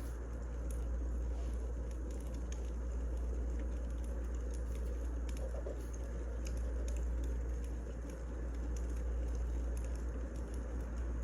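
Firewood burning, with a steady low rumble and scattered small pops and crackles.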